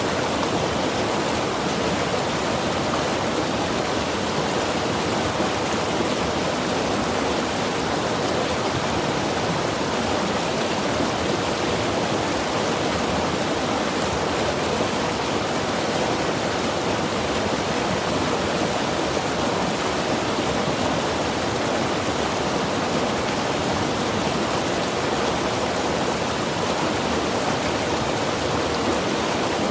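Mountain river rushing steadily over rocks, a constant full hiss of flowing water with no change in level.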